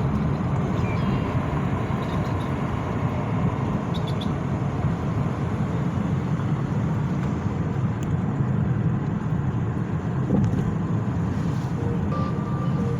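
Steady road and engine noise of a moving car, heard from inside the cabin, with a low rumble. Faint steady tones come in near the end.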